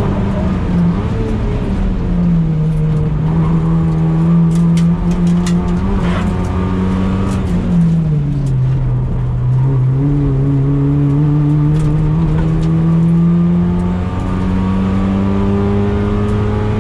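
A Toyota Yaris T Sport's engine driven hard on track, heard from inside the cabin. The steady engine drone drops in pitch about eight seconds in, then climbs slowly as the car accelerates, with a brief dip in revs and loudness about fourteen seconds in. A run of sharp clicks and rattles comes around four to six seconds in.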